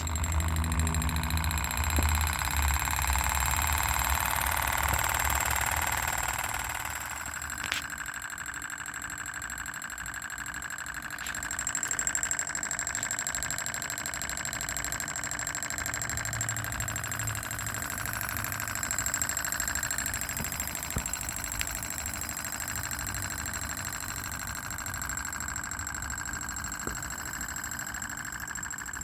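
PM Research solar Stirling (hot-air) model engine running steadily with a fast, even mechanical ticking, a little louder for the first several seconds, with one sharp click about eight seconds in.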